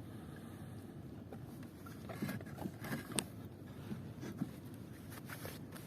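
Irregular scrapes and clicks of gear being handled on a small fishing boat, over a steady low rumble of wind and water. The clicks come in a cluster about two seconds in and again near the end.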